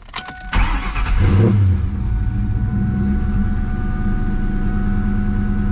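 Car engine cranking and catching, its revs flaring up for about a second after it fires, then settling into a steady idle. A thin steady tone runs alongside the idle.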